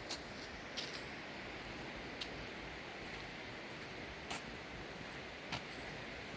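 Steady rushing noise of a waterfall, with a few sharp clicks scattered through it.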